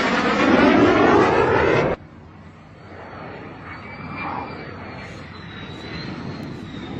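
Jet aircraft passing close by, loud with a sweeping rush that cuts off abruptly about two seconds in. After that, quieter steady engine noise with a faint high whine that slowly drops in pitch.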